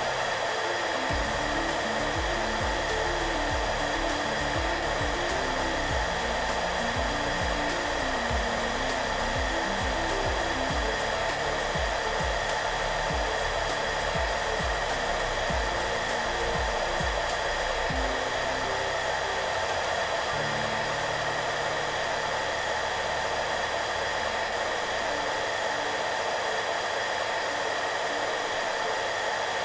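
A hair dryer running steadily: an even rush of air with a constant motor whine. Soft background music with low notes plays underneath, the moving notes giving way to longer held tones after about eighteen seconds.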